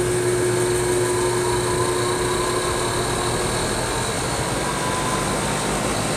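Carrier air conditioners running with a steady hum and fan noise, one of them just started up: a faint whine slowly rises over the first few seconds as it comes up to speed.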